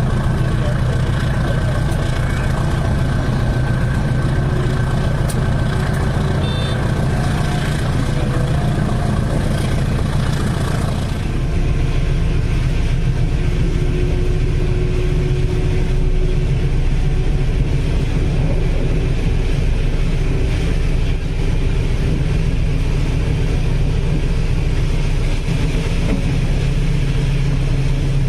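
Steady rumble of a passenger train under way, heavy low hum from the running gear. About eleven seconds in, the higher-pitched part of the noise drops away while the low rumble carries on.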